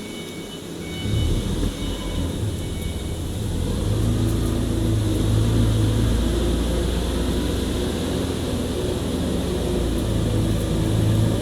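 A steady low mechanical rumble with a hum, like a running engine or machine, swelling about a second in and growing louder again around four seconds in, then holding.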